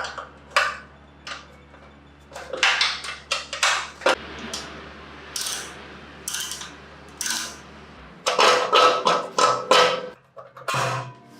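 Metal parts and hand tools clinking, knocking and scraping in irregular bursts, as in workshop work on old metal parts, over a steady low hum that stops about eight seconds in.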